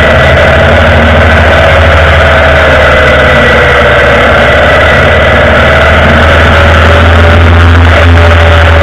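Indian Vintage motorcycle's V-twin engine running steadily at cruising speed, with a constant low hum and wind and road noise. It grows slightly louder near the end.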